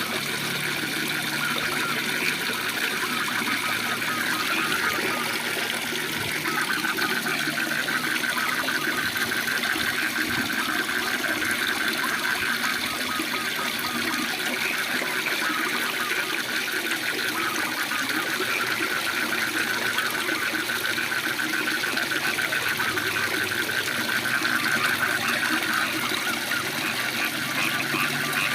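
Waterfall rushing steadily, with a chorus of frogs calling over it as a fast, continuous pulsing trill.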